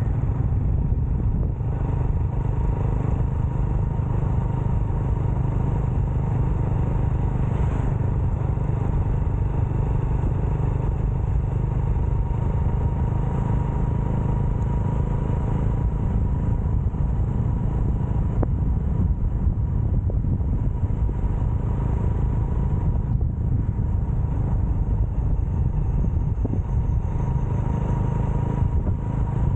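Motorcycle riding at a steady speed: a constant low rush of wind on the microphone over the steady hum of the engine.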